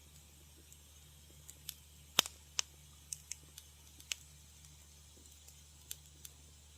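Wood fire crackling in a fireplace: scattered sharp pops and snaps at irregular intervals, the loudest a little over two seconds in, over a faint steady low hum.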